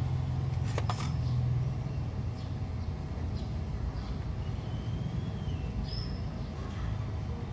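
Steady low background rumble, with a sharp double click just before a second in and a few faint, short high chirps later on.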